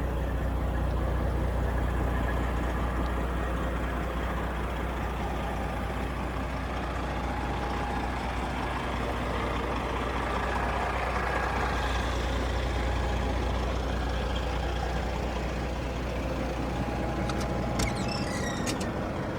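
Detroit Diesel Series 60 inline-six diesel in a Kenworth T800 dump truck idling steadily, swelling slightly partway through. A few brief high chirps near the end.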